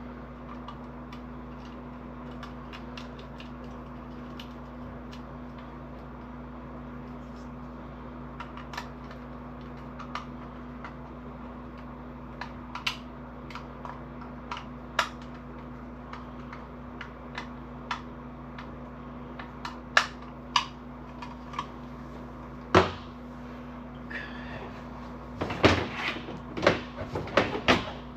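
Scattered light clicks and taps from hands working on small wiring parts: wires, a tool and a plastic controller module. They come more often as it goes on, and a busy flurry of louder clicks comes near the end, over a steady low hum.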